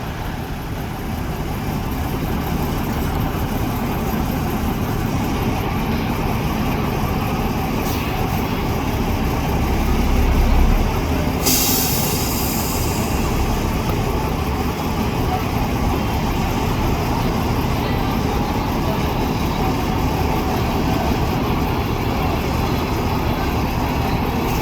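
Heavy-haul truck's diesel engine running steadily under load, with a deeper surge about ten seconds in, then a sharp hiss of air from the air brakes lasting a second or two.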